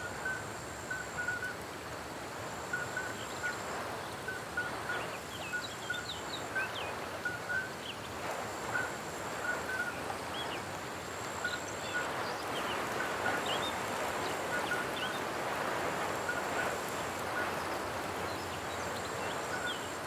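Outdoor natural ambience: a steady background hiss under many short bird calls, repeated throughout, some in quick pairs, with brief higher chirps.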